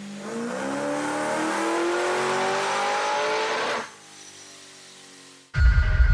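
Procharger-supercharged V8 of a first-generation Ford F-150 SVT Lightning making a full-throttle pull on a chassis dyno: the engine note climbs steadily in pitch for about three and a half seconds, then falls away sharply as the throttle closes, leaving a quieter run-down. Loud music with a beat starts abruptly near the end.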